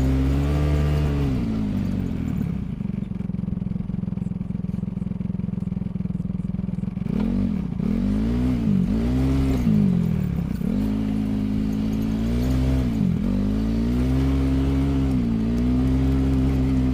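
A vehicle engine running throughout, its pitch dipping and rising again and again as the throttle changes, with a steadier stretch of a few seconds in the middle.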